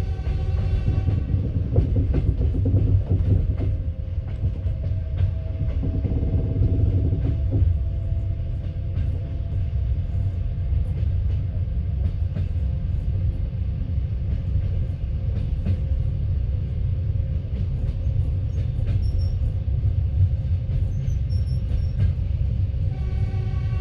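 Passenger train rumbling on the rails, heard from inside a carriage: a steady low rumble with some wheel clatter. A faint tone slowly rises in pitch through the middle.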